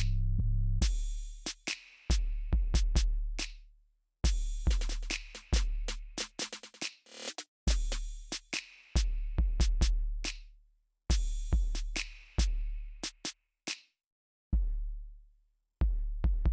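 Electronic drum-machine beat with deep, drawn-out bass kicks and sharp clicking hits, in short stop-start phrases broken by brief silences.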